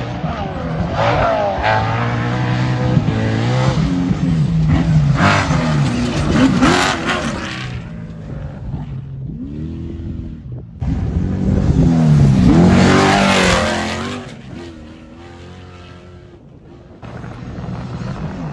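Off-road trophy truck's engine revving hard and racing past, several times over, its pitch sweeping up and down with each pass. The sound changes abruptly about eleven seconds in and again near the end.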